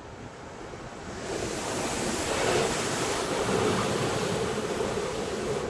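Car wash water spray rushing against the car and pouring in through an open door, heard from inside the cabin: a loud hissing rush that builds about a second in and eases near the end.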